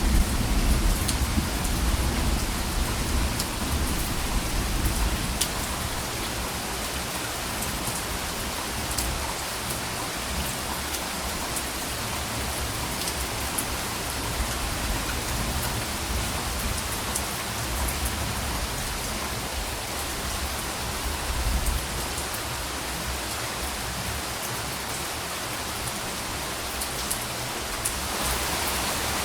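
Steady rain falling, with individual drops ticking sharply over the hiss. Soft rolls of distant thunder rumble low at the start and again about two-thirds of the way through.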